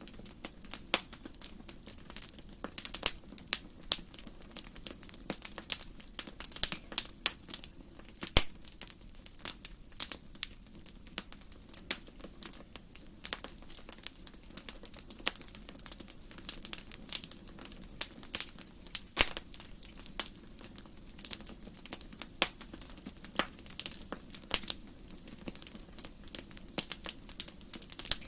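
Wood fire burning in a fireplace, crackling and popping irregularly several times a second over a low steady rumble of the flames.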